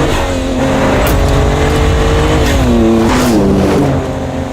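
Ford Raptor's 3.5-liter twin-turbo EcoBoost V6 running hard off-road. Its note holds steady, then drops in two steps around the middle.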